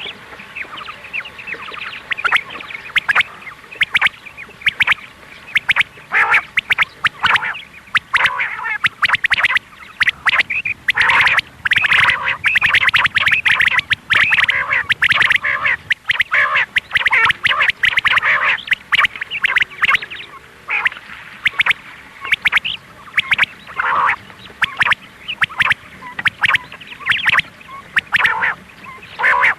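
Quail calling: rapid runs of short, harsh calls, thickest from about ten to nineteen seconds in, then thinning to scattered calls.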